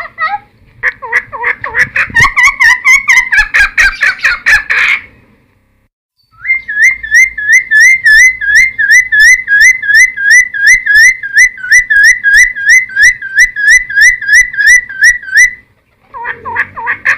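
Cucak timor (helmeted friarbird) singing loudly: a burst of quick, varied chattering phrases, a pause of about a second, then one ringing note repeated about three times a second for some nine seconds. After a short break the song starts again near the end.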